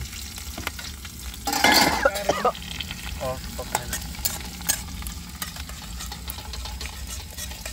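Chopped onion, garlic and chillies sizzling in hot oil in a kadhai during the tadka (tempering), stirred with a metal spoon that clicks and scrapes against the pan. A louder burst of sizzling and stirring comes about a second and a half in.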